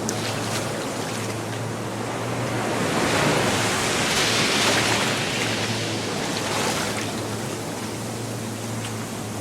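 Gulf of Mexico surf: small waves washing up the beach, one swelling about three seconds in and easing off a few seconds later, over a faint steady low hum.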